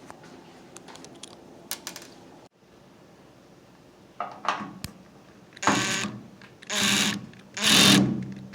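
Metal tools clicking and scraping against the microwave's sheet-metal case and its security screws: light clicks at first, then three loud rasping scrapes near the end.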